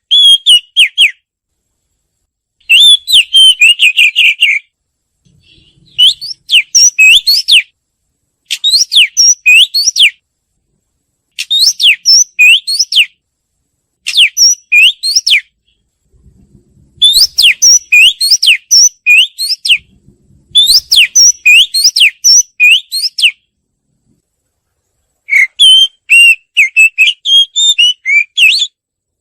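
An Oriental magpie-robin singing: about nine phrases of clear, rapid whistled notes that sweep up and down, each phrase lasting a second or two, with short pauses between them.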